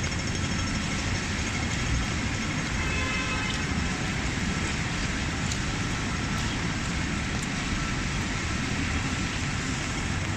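Steady noise of a busy city street in the rain: traffic running and the hiss of rain and wet roads.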